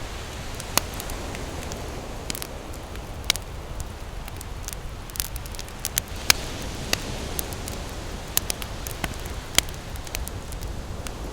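Wood campfire crackling, with irregular sharp pops and snaps, a few louder ones scattered through. Underneath is a steady low wash of ocean surf.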